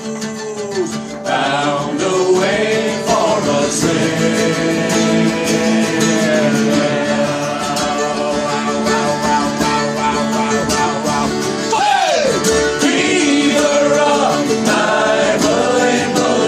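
Shanty choir singing a sea shanty with plucked-string accompaniment.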